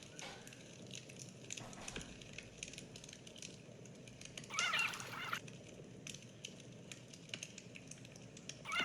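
A bird calls once for about a second, halfway through, over faint irregular clicking.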